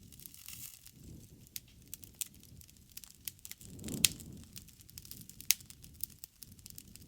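Wood fire burning, with irregular sharp crackles and pops over a low rumble of flames; a louder pop comes about four seconds in and another about five and a half seconds in.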